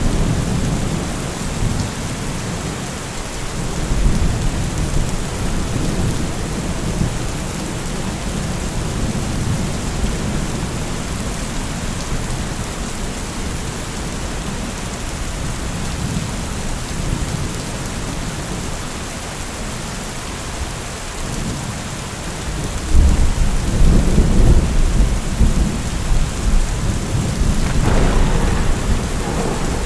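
Steady rain with rolling thunder: a low rumble about four seconds in, and a louder, longer rumble of thunder from about three-quarters of the way through.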